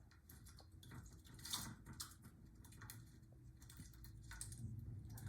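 Near silence: faint scattered clicks over a low steady hum, with one slightly stronger click about one and a half seconds in.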